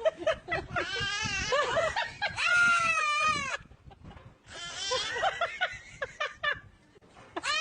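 A goat bleating: a string of loud, wavering calls that arch up and down in pitch. They break off for about a second halfway through, then carry on more faintly.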